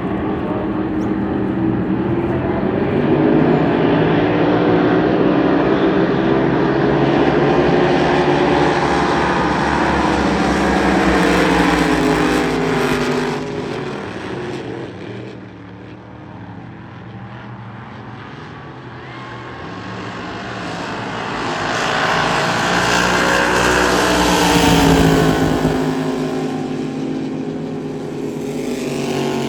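Racing boat engine running hard, its pitch rising and falling repeatedly as it revs. It is loudest in the first half, fades and drops in pitch a little past the middle, then climbs again to a peak near the end.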